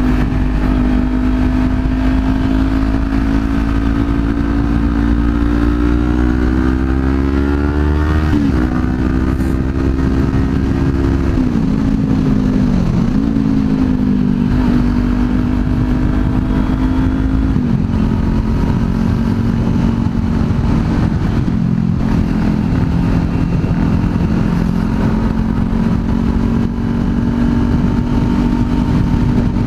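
Kawasaki Z400 parallel-twin motorcycle engine under way. The pitch climbs steadily for about eight seconds, drops sharply a few times over the next ten seconds as the rider shifts or rolls off, then holds steady at a cruise.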